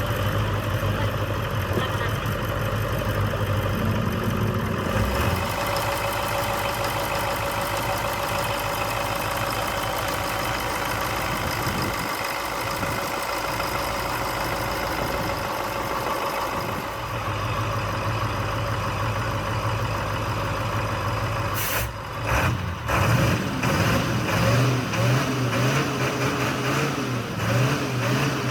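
Freshly rebuilt Mercedes V8 engine running at idle. Near the end it dips briefly and then runs unevenly.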